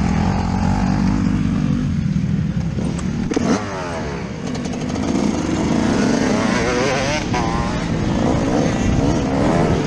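Yamaha YZ125 two-stroke motocross engine heard on board, revving up and down as the throttle is opened and closed. The engine eases off briefly about four seconds in, then the revs climb again.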